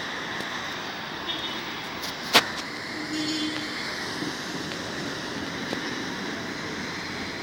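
Steady hiss of heavy rain in a storm. A single sharp knock about two and a half seconds in, and a brief low hum a moment later.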